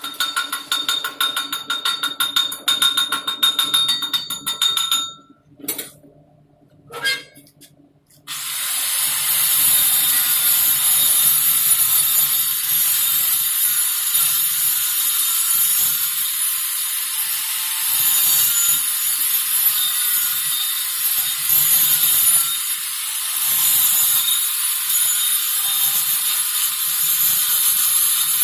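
Rapid metallic clicking and scraping on a steel pipe for about five seconds. After a short pause, a shielded metal arc welding arc strikes and runs with a steady crackling hiss for the rest, laying the hot pass with an E6013 electrode.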